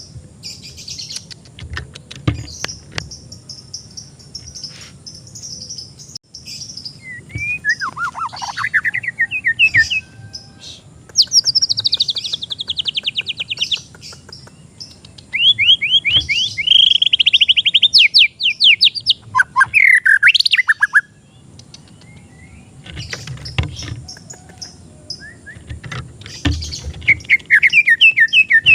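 White-rumped shama (murai batu) singing a varied song: sweeping whistled notes and two long, fast rattling trills in the middle, with short pauses between phrases.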